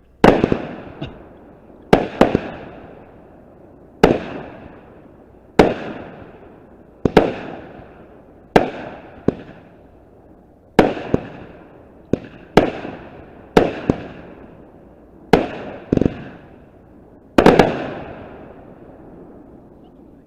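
A 16-shot 200 gram Planet X 'Sith' firework cake firing its shots in sequence: sharp reports about every second and a half, each trailing off in a rolling echo.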